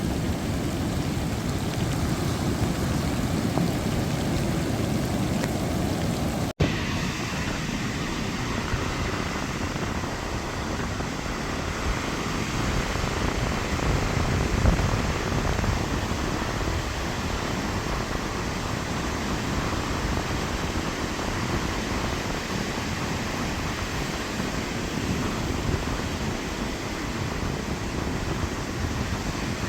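Storm-driven sea waves surging onto the beach with rain falling: a steady rushing noise, broken by a split-second gap about six and a half seconds in.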